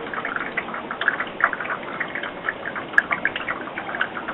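Meltwater from snow on a roof dripping and splashing in a rapid, irregular patter as it runs off into a drain pipe, with one sharp click about three seconds in.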